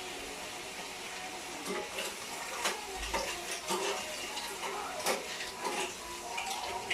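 Kitchen cooking sounds: a steady hiss, then repeated clinks and knocks of utensils against a pot from about two seconds in.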